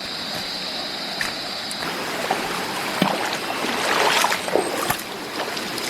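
Stream water rushing, with louder splashing about four seconds in. A steady high insect drone runs underneath for the first two seconds, then stops.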